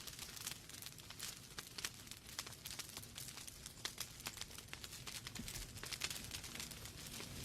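Wood fire burning in a fireplace: logs crackling and popping irregularly over a soft hiss and low rumble of the flames.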